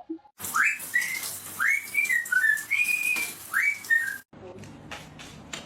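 A parrot whistling several phrases, each a quick upward-sliding whistle followed by a few short level notes. It stops abruptly, and a run of light, irregular clicks follows.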